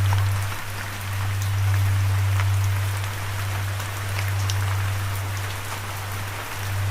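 Steady rain with scattered individual drops ticking, over a loud low hum that swells and fades every couple of seconds.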